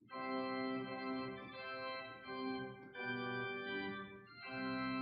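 Austin–Walker combination pipe and digital organ playing sustained chords on its choir manual, the chord changing about once a second.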